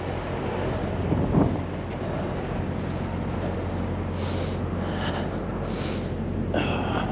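Heavy truck engine idling steadily: a constant low hum with a haze of outdoor noise.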